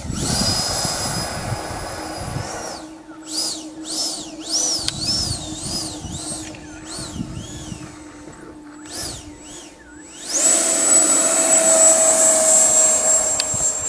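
80 mm electric ducted fan of a Futura RC jet whining steadily, then blipped up and down on the throttle so its pitch repeatedly rises and falls, and about ten seconds in spooled up sharply to a loud steady high-throttle whine.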